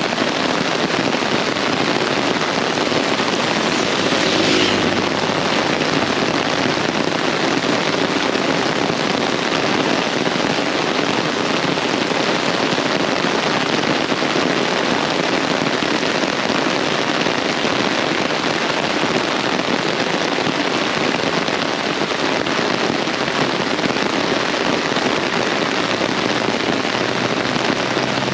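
Very heavy rain pouring down in a steady, dense hiss, with a brief swell about four seconds in.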